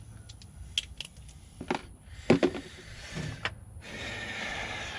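Metal lock parts being handled: a series of sharp clicks and knocks, the loudest a little over two seconds in, then a scraping hiss for the last second or so.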